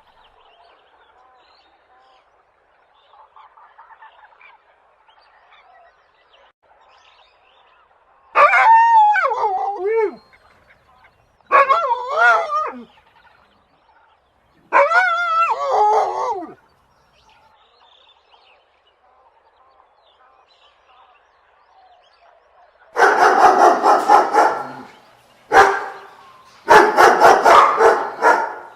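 Three separate wavering, pitched animal calls of about a second and a half each, then, about 23 seconds in, a dog barking in loud rapid runs.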